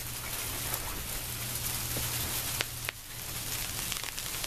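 Sleet falling: a steady hiss of ice pellets with many small sharp ticks as they strike the ground.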